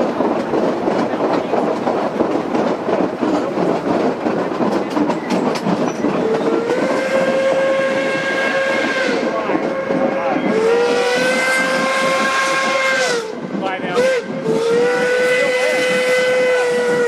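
Steam locomotive whistle, evidently K-27 Mikado 463's, blowing long, long, short, long (the grade-crossing signal) over the running noise of the train. The rumble alone fills the first several seconds before the first long blast.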